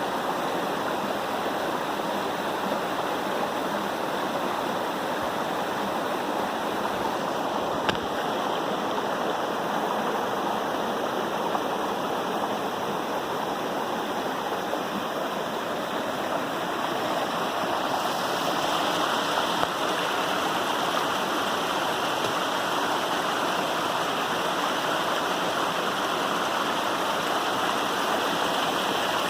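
Waterfall: a steady rush of falling water that grows a little louder about two-thirds of the way through, with one brief click about eight seconds in.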